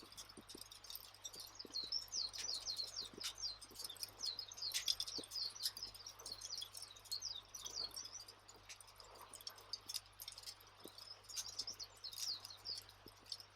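Campfire ambience: a fire crackling with scattered sharp pops, and small birds chirping rapidly throughout in high, quick twitters.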